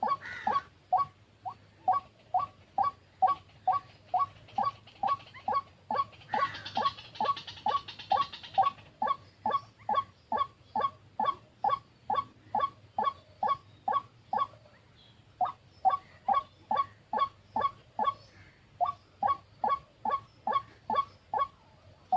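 White-breasted waterhen calling, a monotonous run of short, falling 'ruak' notes, about two and a half a second. The calls break off briefly twice in the latter half, and a rustling hiss runs under them for a few seconds.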